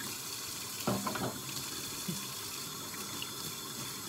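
Kitchen faucet running into a sink in a steady stream, with a few brief knocks of dishes about a second in and again at two seconds.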